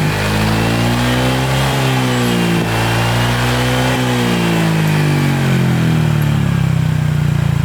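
Honda ADV 150's single-cylinder engine breathing through a ROB1 stainless-steel aftermarket exhaust, revved up and down several times, then easing back toward idle near the end.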